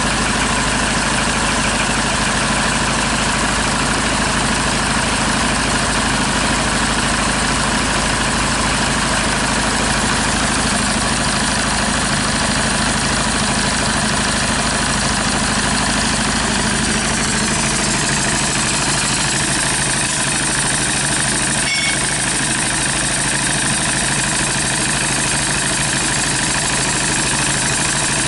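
Hyundai D4CB four-cylinder turbodiesel idling steadily, with an even diesel clatter.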